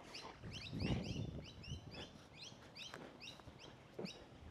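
Birds chirping: a steady run of short, high notes, about four a second. A brief low rumble comes about a second in.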